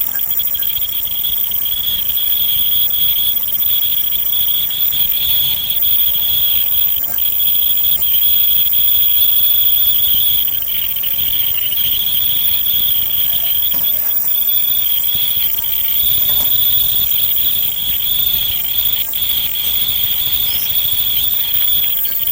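Insects shrilling in one steady, unbroken high-pitched drone that wavers slightly.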